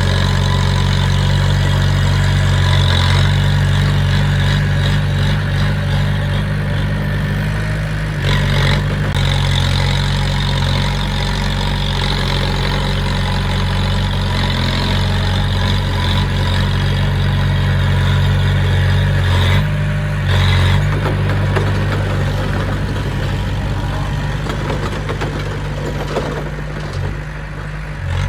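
Diesel engine of heavy earthmoving equipment running steadily at low revs, with small shifts in load a few times and easing slightly near the end.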